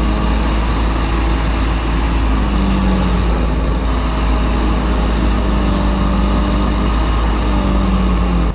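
Heavy machine's engine running steadily over a deep rumble, its pitch rising and falling slightly.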